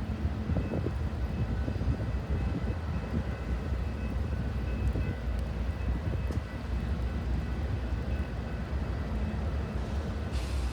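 A train rumbling steadily, with a faint steady high whine above the deep rumble.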